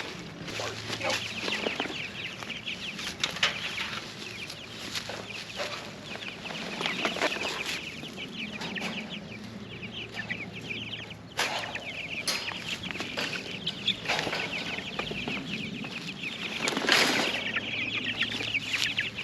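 A flock of young meat chickens calling continuously, many short high cheeps overlapping, with occasional knocks and wing flaps.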